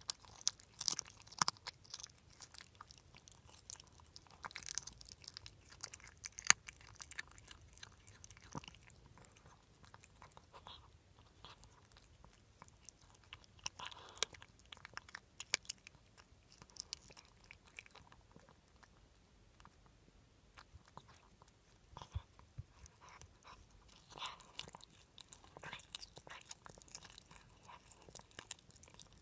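A pet crunching and chewing food close to the microphone, in irregular runs of sharp crackly bites, with a short lull past the middle.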